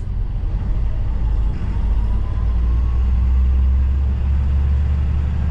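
Truck engine running under way with a steady low rumble, and a faint whine rising in pitch a couple of seconds in.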